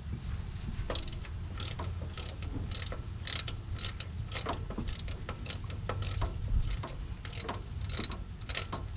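Hand ratchet wrench clicking, about two sharp clicks a second, as a bolt on the engine's pump is worked loose.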